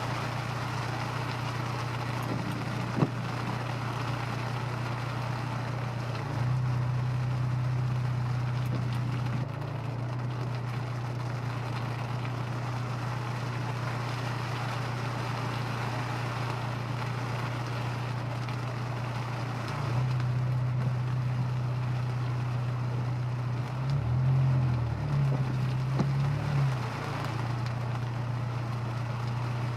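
Honda S2000's four-cylinder engine and road noise heard from inside the car while cruising: a steady low engine drone over a hiss of tyres and wind. The drone grows louder twice, for about three seconds starting around 6 s in and again from about 20 s, its pitch wavering up and down shortly before it settles back.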